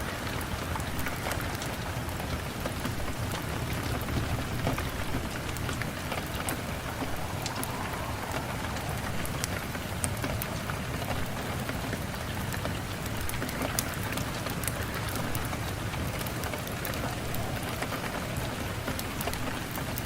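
Steady rain falling, with many small, sharp ticks scattered through it.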